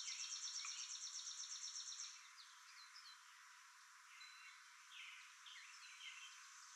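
Outdoor birdsong: a fast trill of high chirps, about five notes a second, stops about two seconds in. Faint scattered chirps follow over a steady hiss.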